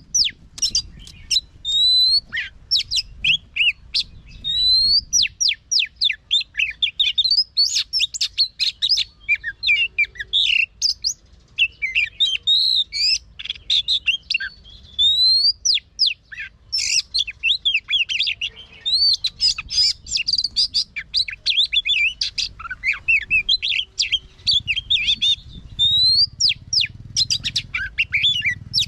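Oriental magpie-robin singing a long, varied song of clear rising whistles, slurred notes and rapid chattering phrases, almost without pause.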